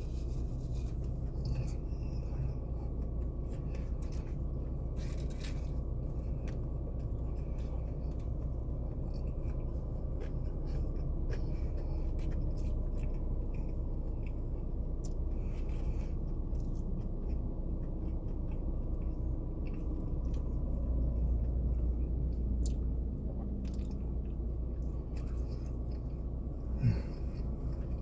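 Steady low rumble inside a car cabin, with scattered soft rustles and clicks of handling and eating food in its wrapper, and a brief knock near the end.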